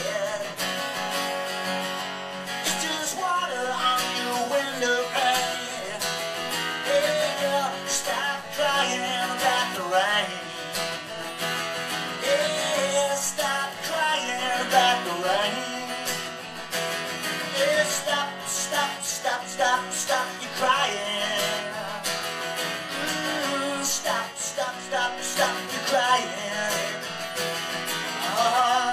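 Acoustic guitar strummed in a live performance of a folk-rock song. It is an instrumental passage without sung words, with a wavering melody line over the chords.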